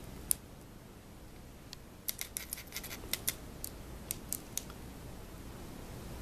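Light, sharp clicks: one near the start, then a quick, irregular run of about a dozen from about two seconds in until about four and a half seconds in.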